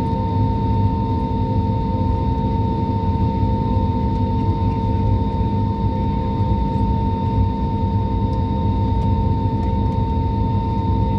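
Steady drone of aircraft jet engines: a low rumble under a constant whine that does not rise or fall.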